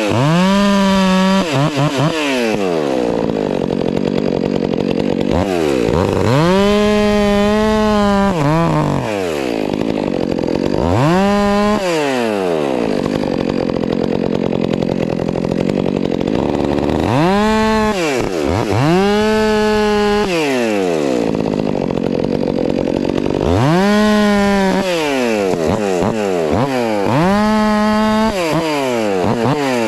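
Stihl MS 400 C two-stroke chainsaw making a series of about eight short cuts into firewood, each a rise to full throttle, a held pitch under load, then a drop back to idle.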